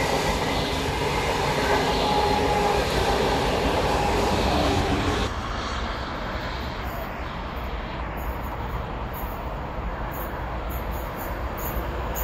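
Polish ED250 Pendolino high-speed electric train running past on the rails as its last cars go by. About five seconds in the sound cuts abruptly to a quieter, steady rumble of an EP09 electric locomotive and its train approaching from afar.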